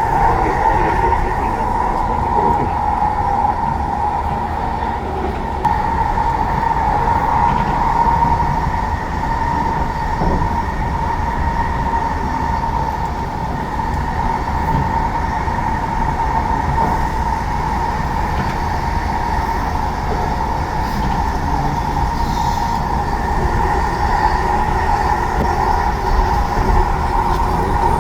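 Train running at a steady speed: a continuous hum at an even pitch over a steady low rumble.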